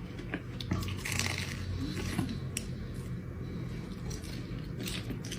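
Close-miked eating: biting into and chewing a fried Korean corn dog, with scattered short sharp crackles of the crisp batter and softer chewing in between.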